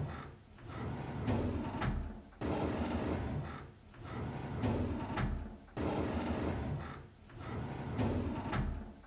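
A drawer sliding open, repeated about three times, roughly every three and a third seconds. Each pull is a rising sliding rumble ending in a sharp click as the drawer reaches its stop.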